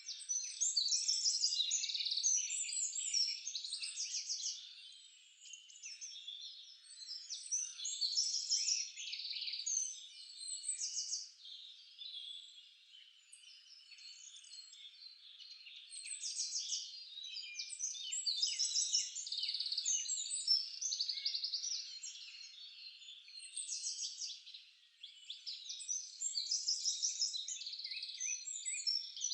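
Several songbirds singing over one another, a dense chorus of high chirps and rapid trills that swells and fades every few seconds.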